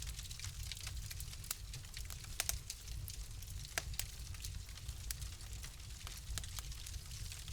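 Wood fire crackling in a fireplace: a steady low rumble and hiss with frequent sharp pops, a few louder snaps about two and a half and four seconds in.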